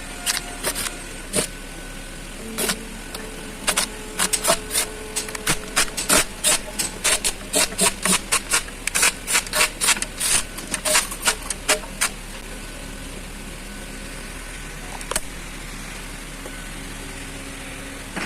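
Sharp metallic clicks from a hand ratchet, spaced irregularly at first and then about two a second for several seconds, stopping about twelve seconds in, with a lone click later on; a steady hum underneath.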